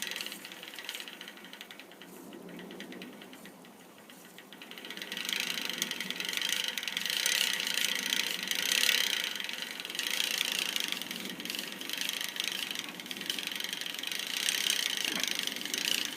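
Bicycle chain running through a vintage Huret rear derailleur's pulleys, giving a fast, continuous clacking that is softer for the first few seconds, then louder. The owner believes the clacking is the chain links slapping against the pulleys as they wind through, with the old, not perfectly straight derailleur perhaps adding some of the noise.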